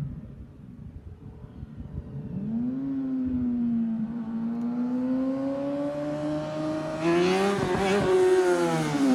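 2008 Honda CBR600RR's inline-four engine through Two Brothers carbon-fibre slip-on exhaust and Arrow headers, approaching and passing by. Its note comes in about two seconds in and builds steadily, gets louder about seven seconds in, then drops in pitch at the end as it goes past.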